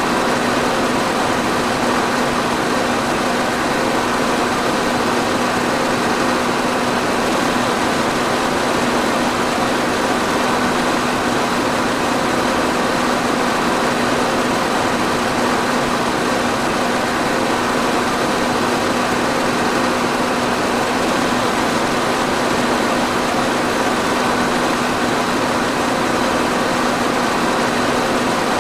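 Electric fan running steadily: an even rush of air with a constant motor hum underneath.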